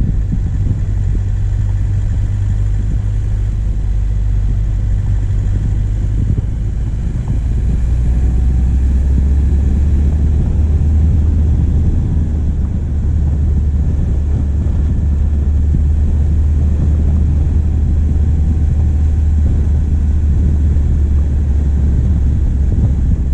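Diesel engine of a vehicle driving, heard through a microphone on its bonnet as a loud, steady low hum. About seven seconds in, the engine note drops in pitch and grows a little louder.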